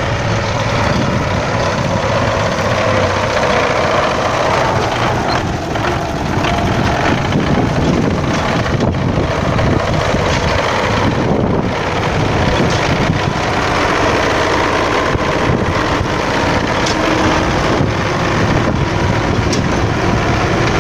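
MTZ-82 tractor's diesel engine running steadily while it pushes stones and earth along the shore, with scattered knocks.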